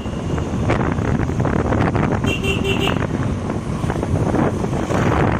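Motorcycle riding along the road, with steady engine, wind and tyre noise. About two seconds in, a vehicle horn sounds in a quick run of short beeps lasting about half a second.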